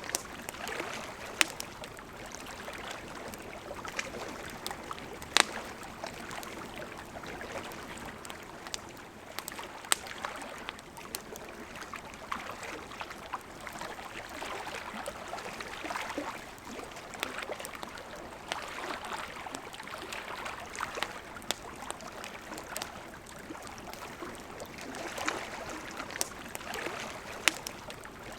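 Campfire crackling, with sharp pops scattered irregularly, over the steady rush of a flowing river.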